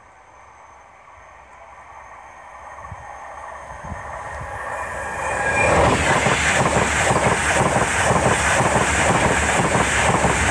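A Virgin Trains East Coast express passenger train approaching, growing steadily louder, then passing close by at speed about six seconds in. There is a loud rush of wheel and rail noise with a fast, even clatter of wheels over the track.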